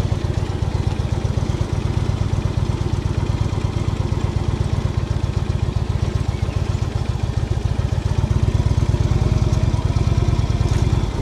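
Indian cruiser motorcycle's V-twin engine running at low revs with a steady pulse, getting louder about eight seconds in as the throttle opens.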